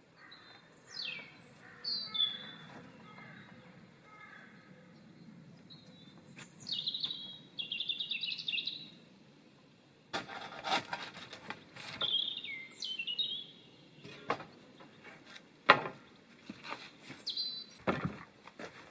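Wild birds calling, with repeated high whistles that sweep downward and a fluttering trill. From about halfway through, a series of sharp knocks and rustles joins in; one knock near the end is the loudest sound.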